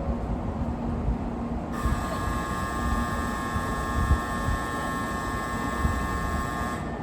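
Shinkansen platform departure signal sounding as one steady, even tone for about five seconds, starting abruptly a couple of seconds in and cutting off sharply near the end, over a low station rumble.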